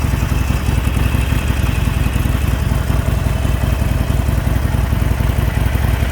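2019 Harley-Davidson Sportster 48's air-cooled 1200 cc V-twin engine on its stock exhaust, idling steadily.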